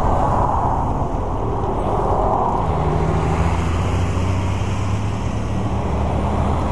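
Motorcycle engine running steadily while riding, under heavy wind rush on the microphone; the engine's low hum comes through more clearly about two and a half seconds in.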